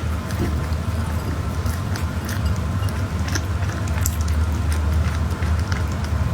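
Close-miked chewing of soft food: scattered small wet mouth clicks and smacks, a few times a second, over a steady low hum.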